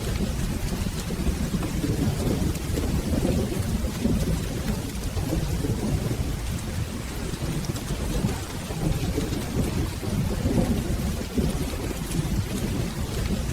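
Steady rain with a low, continuous rumble of rolling thunder underneath, no single clap standing out.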